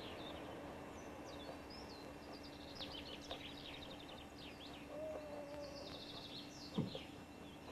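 Small birds chirping and trilling, with many quick high calls overlapping, over a faint steady hum. A single short knock near the end.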